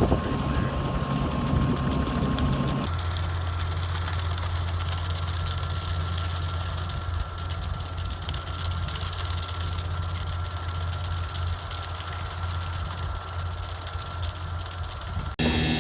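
Engine of the machinery working the manure spreader, running at a steady speed. About three seconds in the sound changes to a steadier low hum with a faint high whine, and it cuts off abruptly near the end.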